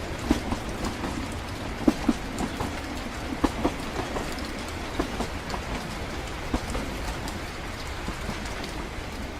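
Steady rumble of a moving train carriage, heard as if riding inside, with irregular clicks and knocks from the wheels and rattling fittings.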